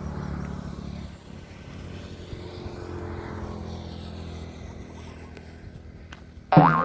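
An engine running steadily, a low hum, then near the end a goat gives one loud, wavering bleat.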